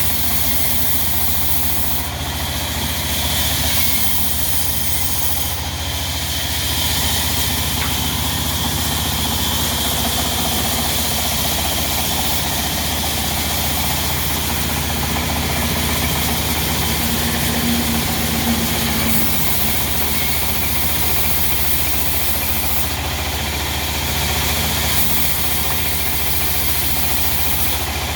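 Diesel engine powering a sawmill, running steadily with a constant low hum.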